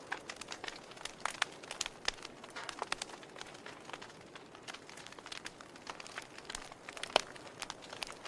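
Wood fire crackling in a fireplace: irregular snaps and pops over a soft hiss, with one louder pop about seven seconds in.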